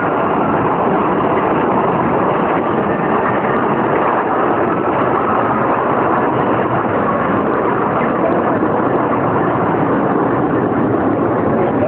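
Steady, loud roar of aircraft engines, holding level without any clear rise or fall.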